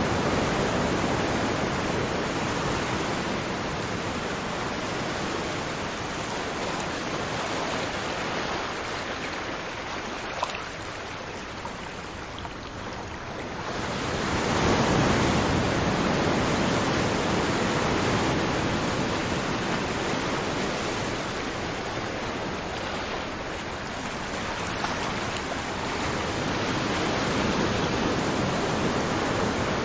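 Ocean waves breaking on a shore, a steady wash of surf that swells and ebbs slowly, with a lull in the middle and a large wave rolling in about halfway through.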